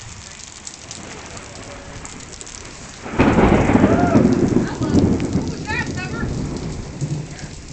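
Heavy rain pouring steadily, then about three seconds in a sudden loud rumble of thunder that slowly fades over the next few seconds.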